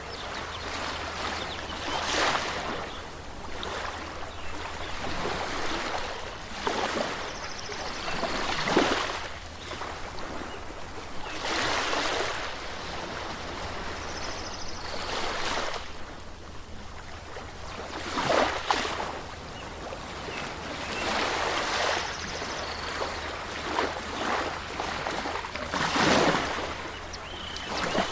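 Small waves washing in, a swell every three to four seconds over a steady hiss of moving water.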